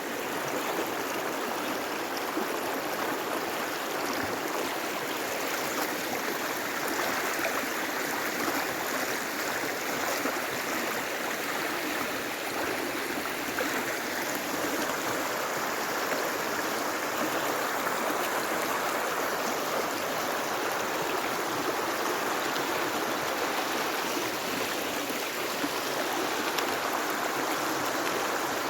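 A wadi running full of water, flowing steadily.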